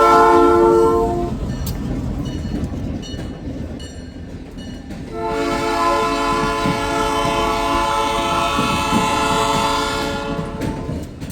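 Diesel locomotive horn sounding a chord of several tones: a blast that ends about a second in, then a long blast from about five seconds in to near the end. Underneath is the rumble and clickety-clack of a moving train.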